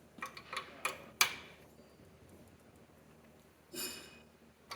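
Four or five light, sharp metal clicks in quick succession within the first second or so, from a wrench working the brass propane fittings of a gas forge's burner bar. A short scraping rustle follows near the end.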